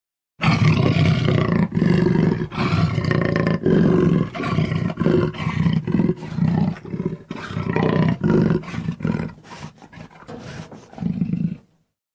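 A big cat roaring in a long series of rough, low grunting calls, about two a second, growing weaker and more spaced out near the end.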